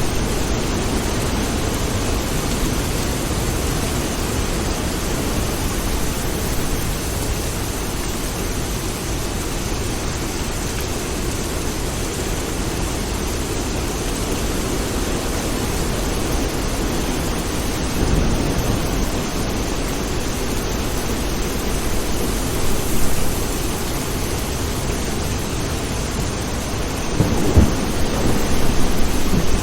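Steady rain with low, rolling thunder from a thunderstorm. The rumble swells a few times, most strongly near the end.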